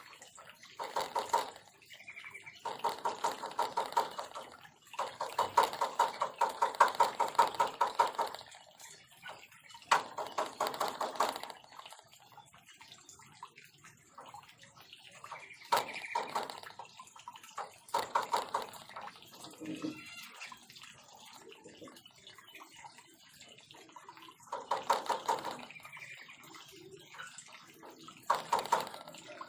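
Bar-winged prinias (ciblek) calling in bursts of fast, rapidly repeated notes. The bursts come again and again, the longest lasting about three seconds.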